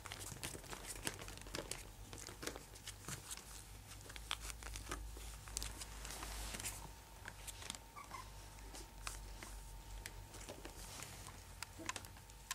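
Quiet crinkling and scratching rustles with many small irregular ticks, as young English Cocker Spaniel puppies move about.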